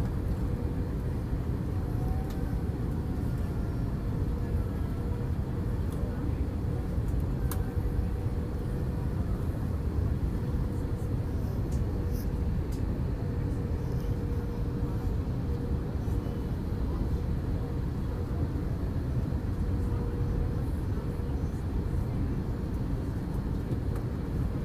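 Steady airliner cabin noise inside an Airbus A321 during approach: a constant low rumble of engines and airflow, with a steady mid-pitched tone running through it.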